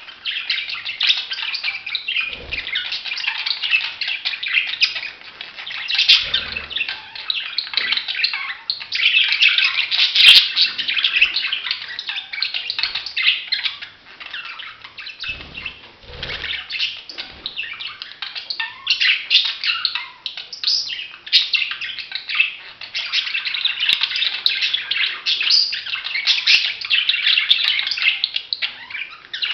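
Budgerigars chattering and warbling: a steady, dense stream of rapid chirps and twitters with no pauses.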